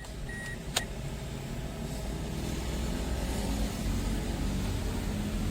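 Toyota Corolla Altis engine running steadily, with a short beep and then a sharp click in the first second.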